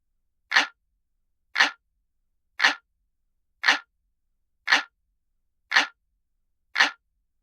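Clock ticking sound effect: seven identical sharp ticks, evenly spaced at about one a second, with silence between them.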